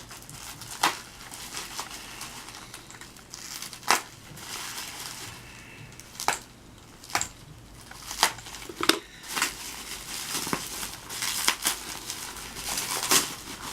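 Packaging being handled and unwrapped to free a diecast car, crinkling with irregular sharp crackles and snaps.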